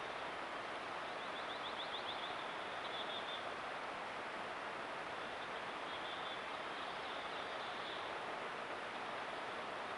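Steady hiss from a trail camera's microphone, with faint small-bird song over it: a quick trill about a second in, then a few short chirping phrases later on.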